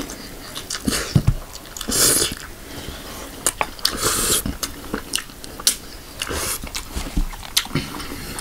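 Close-miked eating sounds: a man chewing chicken and rice, with many sharp wet mouth clicks and smacks and three longer hissy bursts.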